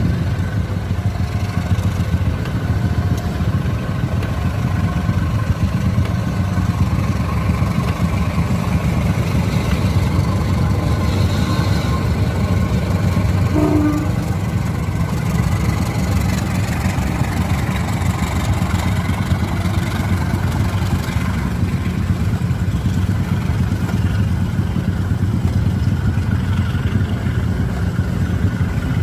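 CC201 diesel-electric locomotive's engine running steadily, a constant low drone with an even level throughout.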